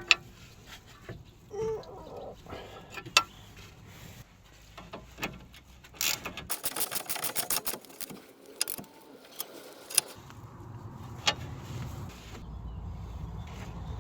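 Scattered metallic clicks and knocks of hand tools at work on a car, with a quick run of rapid clicking about six seconds in. A low rumble starts near the end and grows louder.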